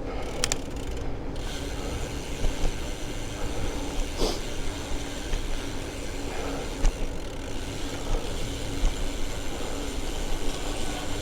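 Bicycle riding along a road: steady tyre and road noise with the rear hub's freewheel ratchet ticking as it coasts, and a couple of short knocks from the bike.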